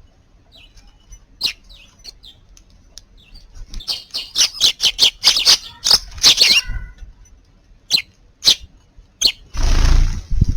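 Eurasian tree sparrows chirping: scattered short chirps, then a quick run of many chirps in the middle, then a few single chirps. A burst of rustling noise near the end.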